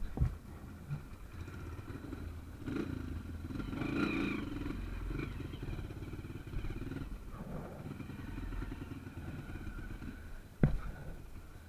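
Small trail motorcycle engine running over rough ground, revving up a few seconds in and then settling. A sharp knock comes just after the start, and a louder one about a second before the end.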